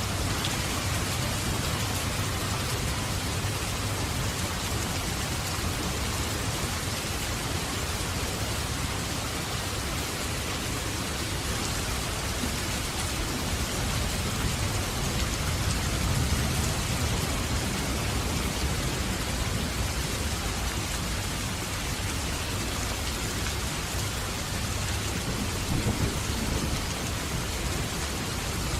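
Steady heavy rain falling, with low rolling thunder rumbling beneath it, swelling about halfway through and again near the end.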